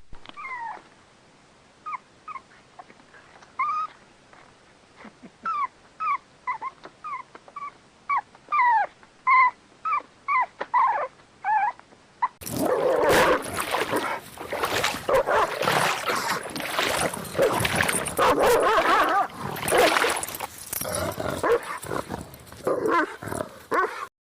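A dog whimpering in a series of short, high, falling whines, a dozen or more spaced over about twelve seconds. About halfway through the sound cuts suddenly to a louder, busier stretch of noisy sound.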